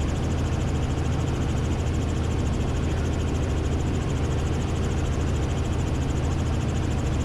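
Robinson R44 helicopter's engine and rotor noise, a steady drone picked up through the cockpit intercom.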